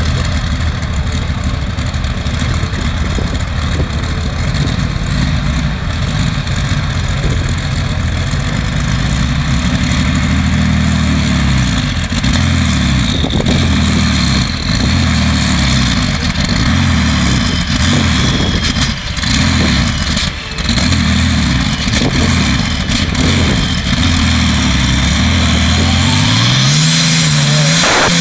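Modified-class pulling tractor's engine running loud at high revs under load. The engine note sags about halfway through, then climbs sharply near the end.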